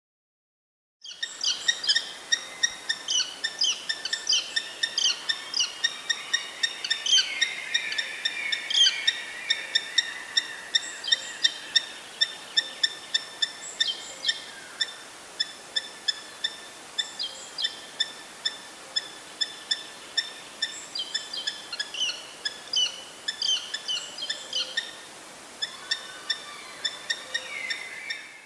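Eurasian hobby calling: a long series of short, sharp, high-pitched notes, about two a second, over a faint steady outdoor hiss.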